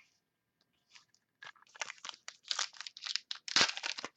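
Crinkling and tearing of a trading card pack wrapper being torn open, a dense, irregular crackle that starts about a second and a half in and grows louder toward the end.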